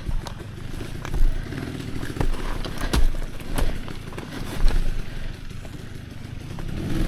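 Dirt bike engine running at low revs, with scattered knocks and clatter as the bike works over rough trail.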